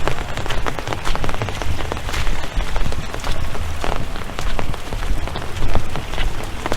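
Rain falling, with many drops striking close to the microphone as dense, irregular ticks over a low rumble.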